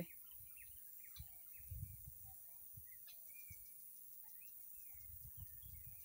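Faint outdoor ambience: scattered short chirps and calls of small birds, with a soft low rumble now and then.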